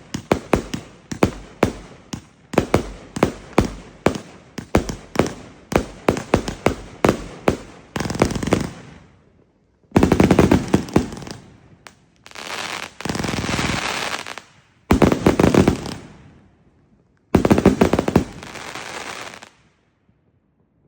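A 300-shot firework cake firing: single shots about three a second for the first eight seconds, then dense rapid volleys broken by short pauses, with stretches of crackling, the finale ending about 20 seconds in.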